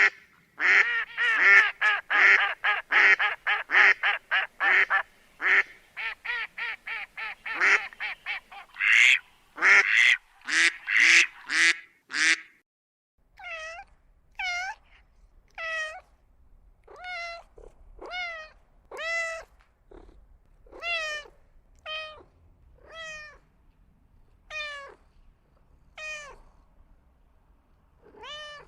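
Animal calls in two runs. For about the first twelve seconds there is a fast series of harsh, honking calls, two or three a second. After that come single clear pitched calls, about one a second, with a faint low rumble beneath them.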